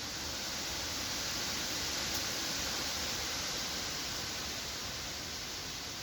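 Wind blowing through forest trees: a steady hiss of leaves that swells into a gust and slowly eases off.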